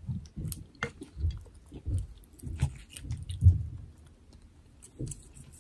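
A person chewing food close to the microphone, with soft, wet, rhythmic chews about twice a second that quieten after about four seconds.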